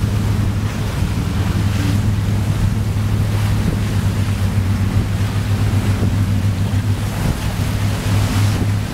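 Carver 3207 cruiser under way: a steady low engine drone, with water rushing past the hull and wind buffeting the microphone.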